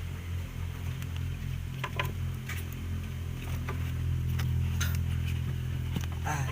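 Scattered light clicks and taps of relays and connectors being handled and fitted, over a steady low hum.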